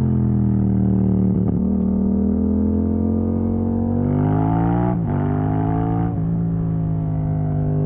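Yamaha MT-07 parallel-twin engine running loud through an exhaust with the dB killer removed, under way. The note climbs steeply about four seconds in, then drops at a gear change about five seconds in, with other brief breaks in the note at shifts around one and a half and six seconds.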